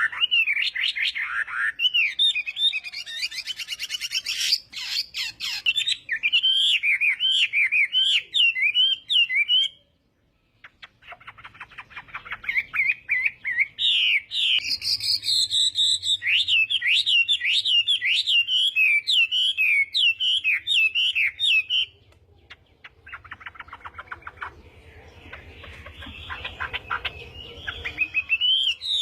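Chinese hwamei (melodious laughingthrush) singing a long, varied song of quick whistled notes that rise and fall rapidly. There is a brief break about a third of the way in, and a quieter stretch near the end.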